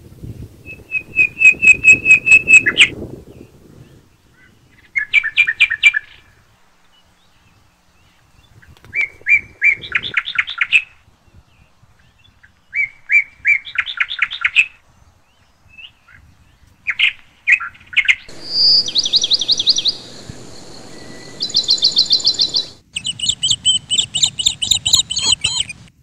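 Birds singing: short phrases of rapid, repeated high chirps, a new phrase every two to four seconds.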